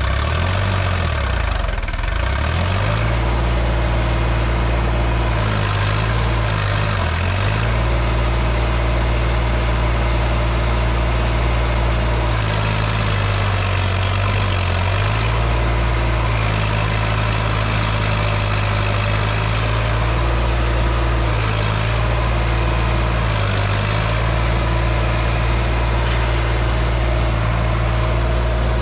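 Sonalika DI 47 RX tractor's diesel engine running steadily and loudly, its speed dipping and rising several times.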